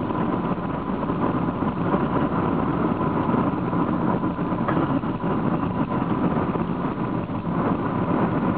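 Car engine and road noise heard from inside a Honda cruising at a steady speed, an even rumble and hiss.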